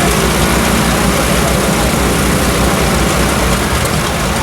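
Light propeller airplane's piston engine running steadily.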